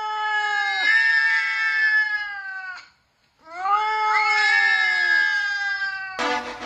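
A domestic cat yowling: two long, drawn-out calls, each about three seconds, with a short break between them. Music starts near the end.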